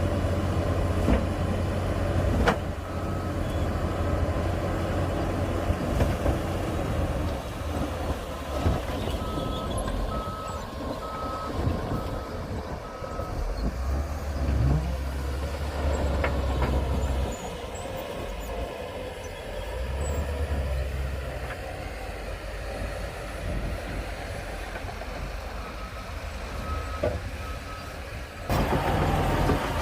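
Diesel engines of heavy earthmoving machinery running, with a reversing alarm beeping about once a second in three spells: near the start, in the middle and near the end.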